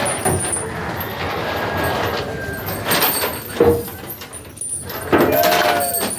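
Crowd of onlookers talking and calling out, with a few short shouts standing out near the middle and towards the end.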